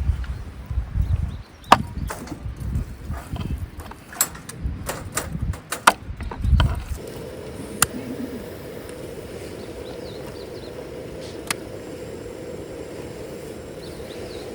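Wooden knocks, thumps and sharp clicks of firewood being handled, which give way about halfway through to a steady hum with one constant tone and an occasional single click.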